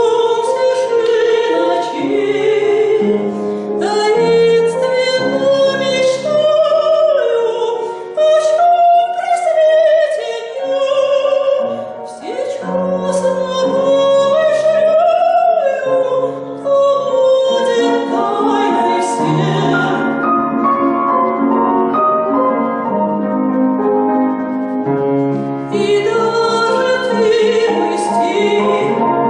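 A woman sings a classical Russian romance in operatic style with vibrato, accompanied by piano.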